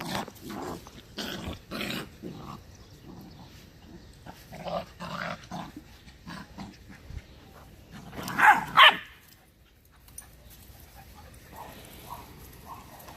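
Puppies growling and yapping in short bursts, with a louder, sharper cry about eight seconds in.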